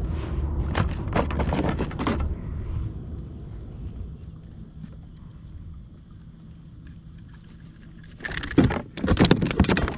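Clattering and knocking from handling on a kayak, with some light metallic jangling, as a gut-hooked jewfish and the fishing gear are dealt with. There is a spell of it for about two seconds at the start, then it goes quieter, and it comes back louder and denser near the end.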